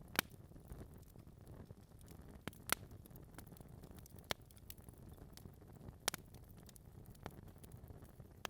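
Wood fire burning in a fireplace: a low, steady rumble of flames with scattered sharp crackles and pops from the burning logs, the loudest pops coming about a quarter of a second in, near three seconds, past four seconds and about six seconds in.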